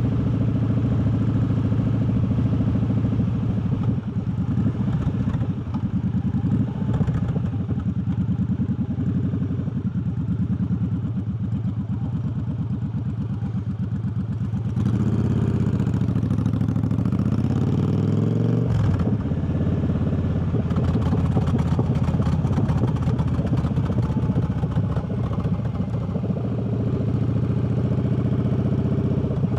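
Triumph Bobber's parallel-twin engine running on the move. About halfway through its pitch rises under acceleration, then drops suddenly at a gear change, and it settles back to a steady cruise.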